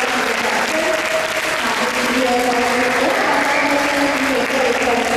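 Audience applauding steadily, with a few held tones at shifting pitches underneath.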